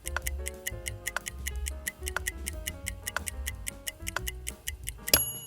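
Background music with a steady clock-like ticking at about four ticks a second, over a bass line and short melodic notes. A single loud hit with a ringing chime comes near the end.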